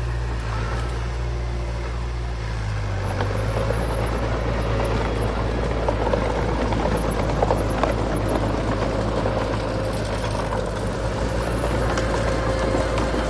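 Heavy diesel earthmoving machinery running steadily. About three seconds in it gets a little louder and a steady whine joins the engine drone, with a few brief knocks near the middle.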